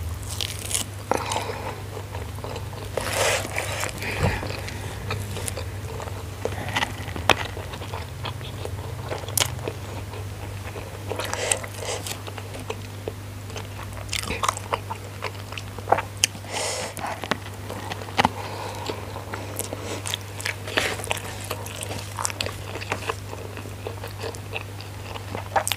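Close-miked chewing and crunching of a mouthful of nasi padang eaten by hand, with irregular crisp crunches and clicks. A steady low hum runs underneath.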